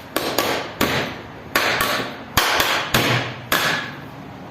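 Metal knocks of a hammer tapping the end cover of a window AC fan motor back into place over the oiled bush: about nine sharp knocks at an uneven pace, some in quick pairs.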